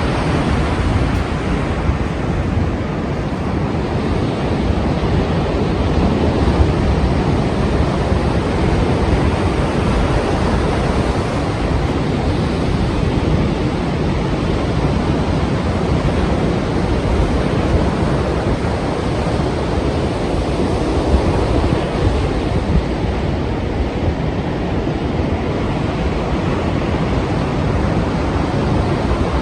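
Strong sea waves breaking as continuous surf, with wind buffeting the microphone. The roar swells and eases gently with no distinct single crashes.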